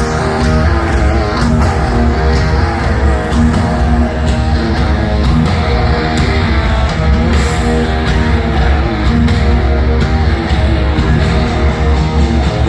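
Loud heavy rock music led by guitar over a strong, continuous bass.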